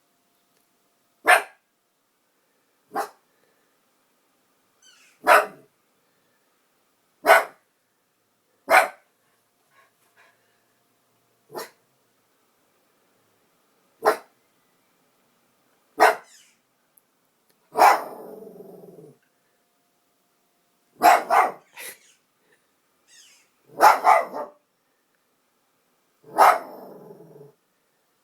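A dog barking in single loud barks every one to three seconds, about a dozen in all. A few of the later barks are drawn out into a longer, rougher tail.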